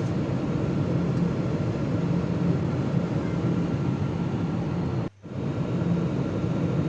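Steady drone of a jet airliner's engine and airflow, heard inside the cabin from a seat over the engine in cruise, with a low hum under an even rush. The sound cuts out for a split second about five seconds in.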